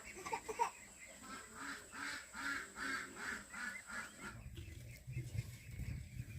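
Farmyard fowl giving a quick run of short honking calls, several a second, for about three seconds. A low rumble takes over near the end.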